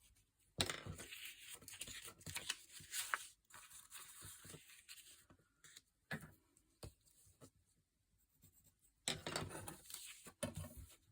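Paper being torn by hand, in two long tearing stretches of a few seconds each, the first starting about half a second in and the second near the end, with a few short rustles of paper between.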